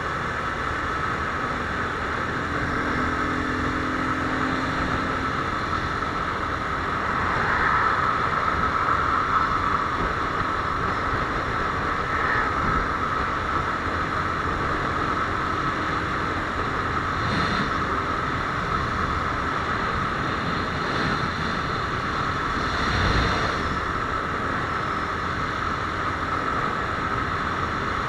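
Viper R2 motorcycle running at a steady cruise, its engine drone mixed with rushing wind noise on the microphone. It swells a little about a third of the way in, and there is a brief low thump near the end.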